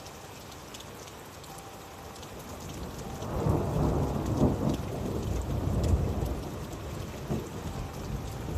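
Steady rain with scattered drops, and a roll of thunder that swells about three seconds in, rumbles for a few seconds and fades.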